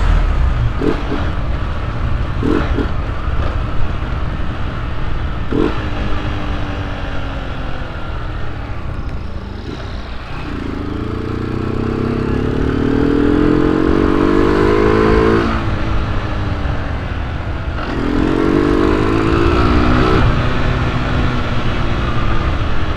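Honda CG 125 Cargo's single-cylinder four-stroke engine running under way with its intake hose removed, giving a throaty intake growl. It revs up in two rising pulls, a long one about halfway through and a shorter one near the end. A few knocks and rattles come in the first seconds as the bike goes over potholes.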